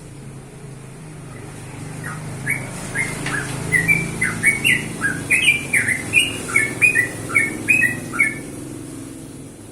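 Yellow-vented bulbul singing a quick run of short, bubbly chirping notes, about two or three a second. The song starts about two seconds in and stops a little over a second before the end, over a steady low hum.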